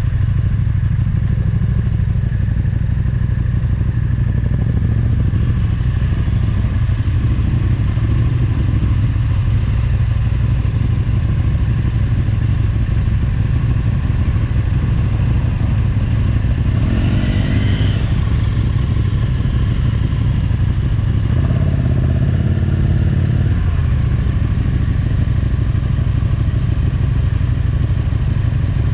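Motorcycle engine running steadily while riding, with a deep, dense rumble, and the pitch briefly shifting a couple of times.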